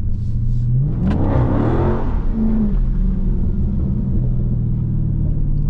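Dodge Charger Scat Pack's 392 Hemi V8 revving hard about a second in, its pitch climbing for about a second with a rush of noise, then running steadily under throttle.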